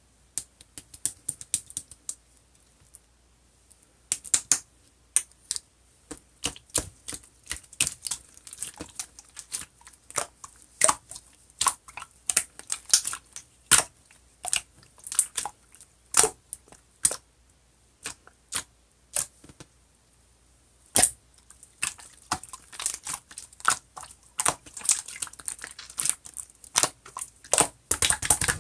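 Pink pearl slime being squeezed and stretched by hand, making irregular sharp clicking and popping sounds as air pockets burst, a few pops a second after a quieter first few seconds.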